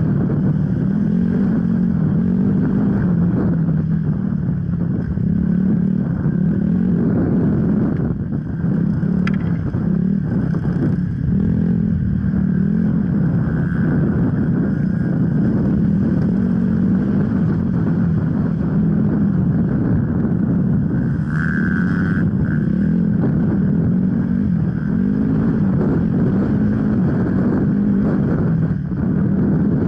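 Off-road enduro motorcycle engine running continuously while riding, its pitch rising and falling with the throttle.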